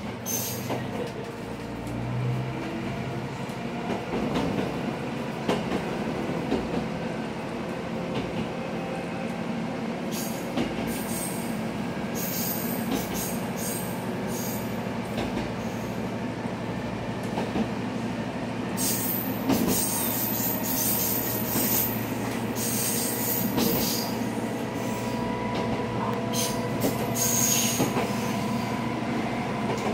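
Mizushima Rinkai Railway MRT300 diesel railcar running along the line, heard from inside the cab: a steady engine drone with wheels rolling on the rails. Bursts of high-pitched wheel squeal come about ten seconds in and again through the second half.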